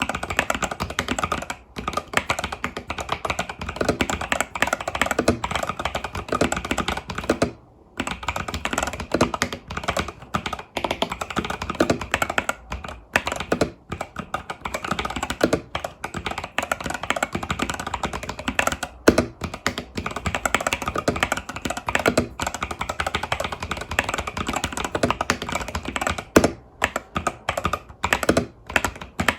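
Fast, continuous typing on an Epomaker TH80 Pro mechanical keyboard with Epomaker Budgerigar tactile switches and stock keycaps: a dense run of key clacks, with one short break about eight seconds in.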